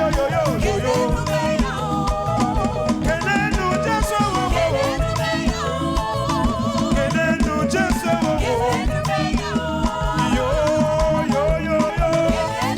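Upbeat live praise-band music with a steady beat: bass and drums under wavering melody lines.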